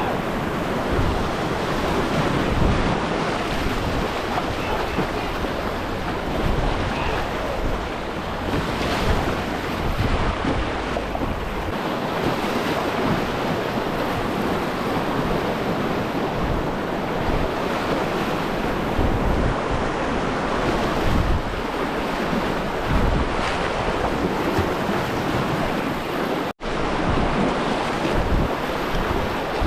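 Rushing river whitewater, a steady dense noise, with wind buffeting the microphone. The sound cuts out for an instant near the end.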